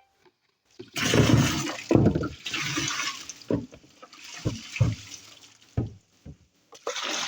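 Water pouring and splashing as a washing machine part is washed by hand, starting suddenly about a second in, with several knocks in the middle and the splashing again near the end.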